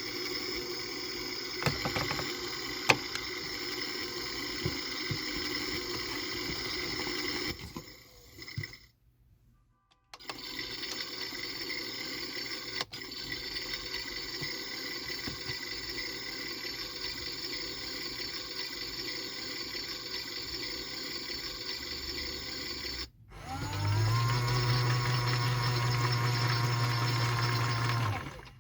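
AEG/Electrolux Lavamat 84950 washing machine ending its inter spin: the steady motor and drum sound dies away about a quarter of the way in, with a short near-silent pause. The machine then runs steadily again for the final rinse. Near the end a low steady hum with water rushing starts as the machine takes in rinse water, and cuts off briefly right at the end.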